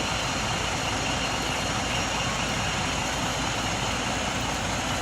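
Truck engine running steadily, with a dense even noise across the whole range.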